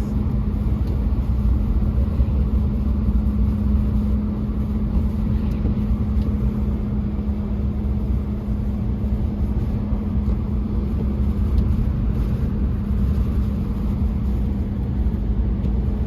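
Four-wheel-drive vehicle driving, heard from inside the cabin: a steady low rumble with a steady hum.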